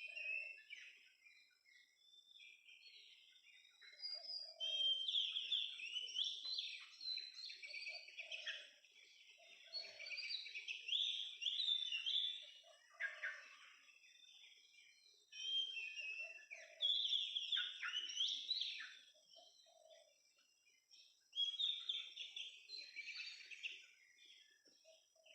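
Oriental magpie-robin singing in bursts of varied, whistled and warbled phrases, a few seconds each with short pauses between, over a faint steady high-pitched tone.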